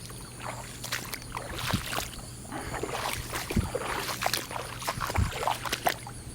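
Footsteps wading and splashing through ankle-deep standing floodwater, an irregular run of sloshes.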